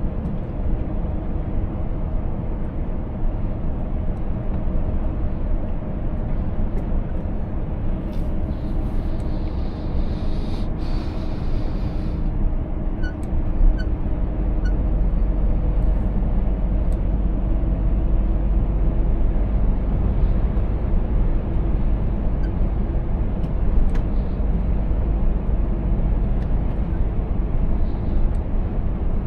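Scania 500S truck's diesel engine running steadily under way, with road rumble. A brief hiss of air comes about a third of the way in, and the low rumble grows heavier about halfway through.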